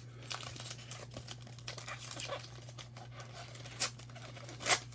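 Trading-card pack wrapper crinkling and being torn open, with two sharper crackles near the end, over a steady low hum.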